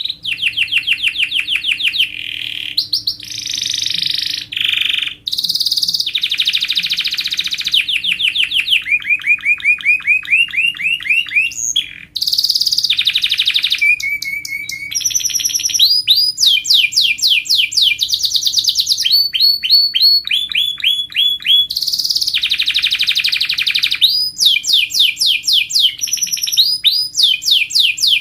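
Domestic canary singing a long, unbroken song of rapid trills, switching to a new trilled phrase every second or two, some phrases made of quick rising or falling sweeps.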